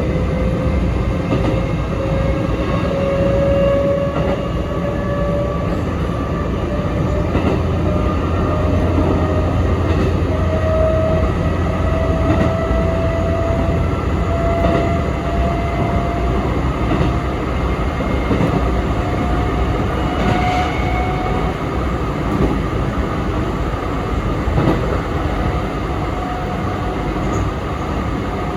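Sanyo Electric Railway 3050 series electric train running between stations, heard from a passenger car: steady wheel-and-rail rumble under a whine from the traction motors and gears. The whine rises slowly in pitch as the train gathers speed, then levels off. A few rail-joint clicks come through at intervals.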